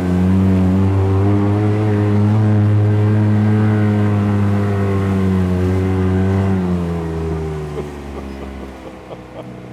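Arctic Cat Wildcat Trail 700 side-by-side engine held at steady high revs while driving through a flooded trail washout, then the revs fall away from about seven seconds in.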